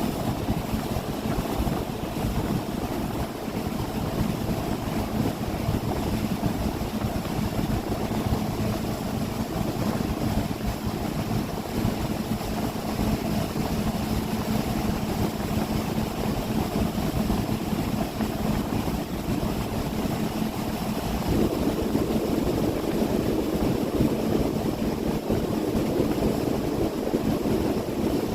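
A 30 ft boat's engine running steadily underway, with a steady low drone, wind and water noise around it. The engine sound grows a little louder about three quarters of the way through.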